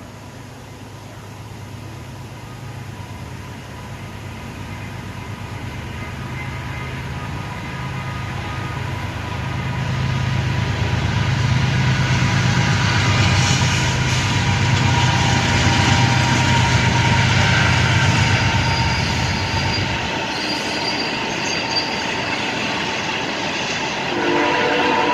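Diesel freight train approaching and passing: the locomotive's low engine rumble grows louder over the first ten seconds, then drops away about twenty seconds in, leaving the rolling noise of the cars. Near the end a train horn sounds a steady chord.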